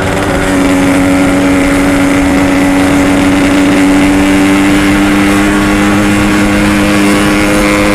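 Yamaha RX-King's two-stroke single-cylinder engine running at steady revs under way, its exhaust note holding one pitch. It picks up slightly in loudness about half a second in.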